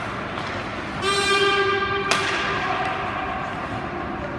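An ice rink's horn or buzzer sounding one steady tone for about a second, ending in a sharp knock, over the general noise of a hockey rink.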